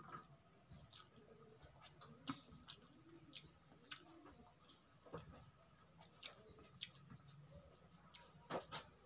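Faint chewing and lip smacks of a person eating a mouthful of rice by hand: scattered soft clicks and wet smacks, with two louder ones near the end.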